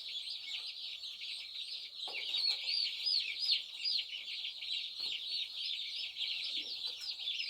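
A box of day-old turkey poults peeping constantly: many overlapping, short, high-pitched arched peeps forming a continuous chorus.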